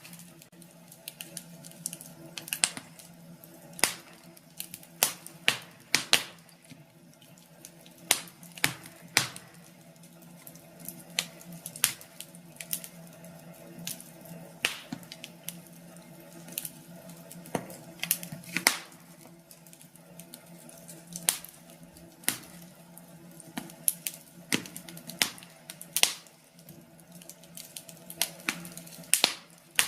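Wood fire crackling in a fireplace: irregular sharp pops and snaps, one or two a second and uneven in loudness, over a faint steady low hum.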